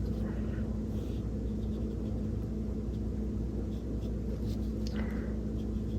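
Steady low room hum, with a few faint, short scratches of a paintbrush working acrylic paint on paper.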